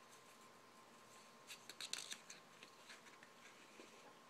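Near silence: quiet room tone with a faint steady high whine, and a brief cluster of soft rustles about one and a half seconds in.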